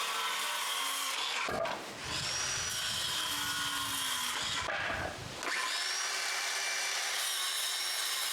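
Power saw cutting wooden boards to length, its motor whining high and steady. From about a second and a half to five and a half seconds in, the blade is biting through the wood, and the sound thickens and drops in pitch.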